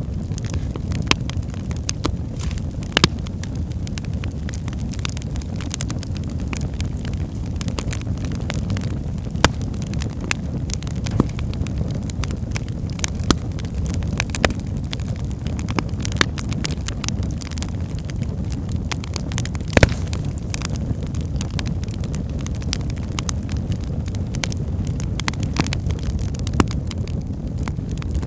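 Wood fire burning in a fireplace: a steady low rumble of flames with irregular crackles and pops from the burning logs, a few of them sharper and louder.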